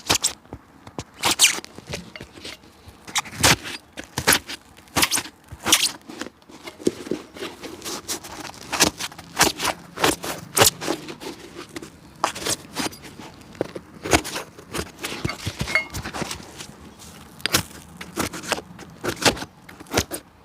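Hand work on an old shoe: irregular scraping or brushing strokes, about one to three a second.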